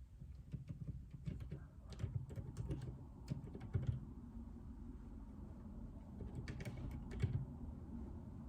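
Typing on a JJK84 mechanical keyboard with Outemu Silent Peach linear switches. A run of keystrokes lasts about four seconds, then comes a pause, then a short burst of keystrokes around six to seven seconds in.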